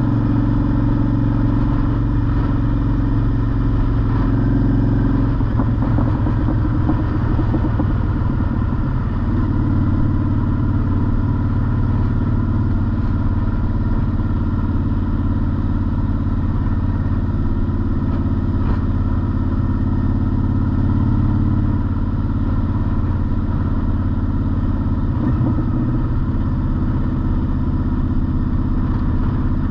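Honda Shadow motorcycle's V-twin engine running steadily while cruising, heard from the rider's seat. The engine note breaks up and changes briefly about six seconds in and again near the end.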